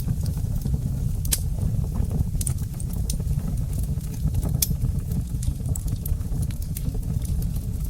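Wood fire crackling in a fireplace: scattered sharp pops and snaps over a steady low rumble of the flames, with a few louder pops in the first half.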